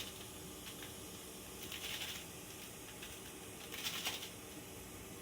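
Electric kettle heating water with a faint steady hiss, early in the heat-up before the boil. Two short hissing rustles stand out, about two and four seconds in.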